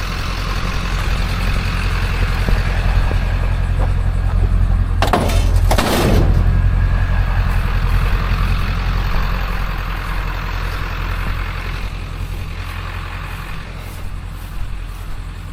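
A vehicle engine idling with a steady low drone, with a brief squeal about five to six seconds in.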